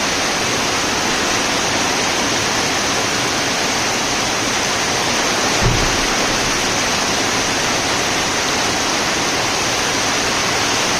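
Heavy rain pouring down in a steady, dense hiss, with one brief low thump a little past halfway.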